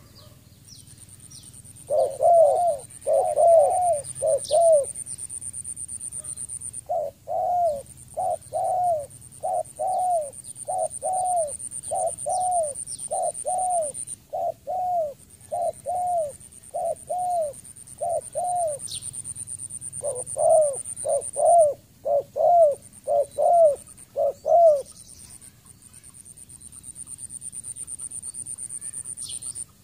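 Spotted dove calling in rapid series of short coos, about two a second, in three bouts with pauses between them. A steady high-pitched whine runs behind, with faint chirps of small birds.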